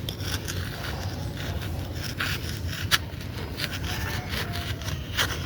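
Dry, dyed purple sand chunk being scraped loose and crumbled by hand: scratchy scraping with scattered crunches and crackles, and a sharp crack about three seconds in.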